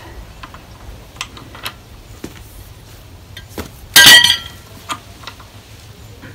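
Steel parts and tools of a backhoe hydraulic cylinder clinking as they are handled, with one loud, ringing metal clang about four seconds in.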